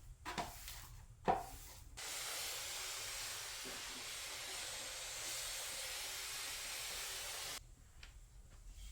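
Two short knocks, then a steady, even hiss lasting about five and a half seconds that starts and stops abruptly.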